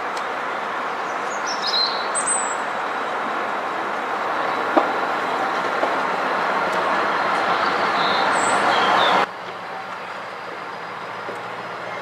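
A train running along the track, a steady noise that builds gradually and then cuts off abruptly about nine seconds in, leaving a quieter steady rumble. Birds chirp briefly over it twice.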